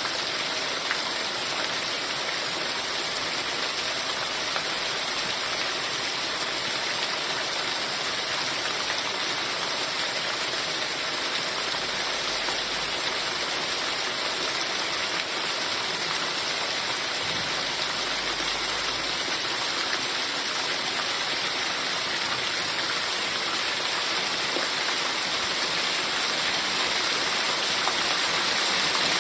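Heavy rain falling steadily, a dense, even hiss of countless drops, growing a little louder near the end.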